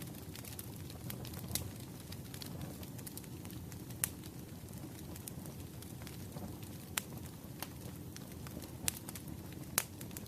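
Firewood burning: a steady low rumble of flames under constant small crackles, with a few sharper pops, the loudest about four seconds in and near the end.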